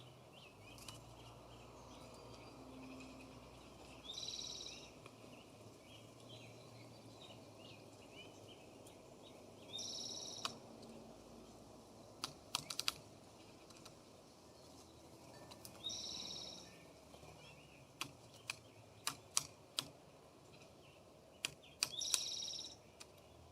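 A bird at the feeders gives a high-pitched call about a second long, repeated roughly every six seconds, over a faint background of other birds chirping. Sharp taps and clicks come in bunches near the middle and toward the end.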